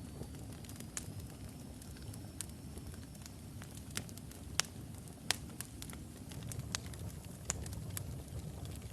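Wood logs burning in a fireplace: a steady low rumble of the flames with irregular sharp crackles and pops, two of them louder than the rest about halfway through. A faint thin high whistle sounds during the first few seconds.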